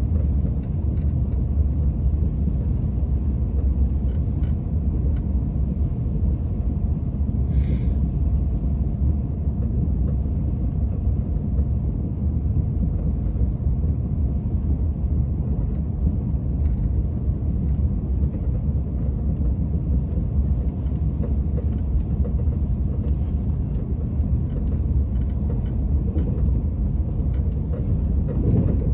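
Steady low rumble of a TGV train running along the track, heard from inside the passenger car. A brief high-pitched sound cuts through about eight seconds in.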